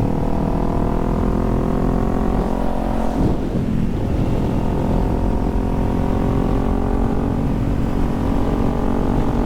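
Kawasaki Z400 parallel-twin motorcycle engine running under way. About three seconds in, its note falls as the bike slows, then it runs steady at a lower pitch.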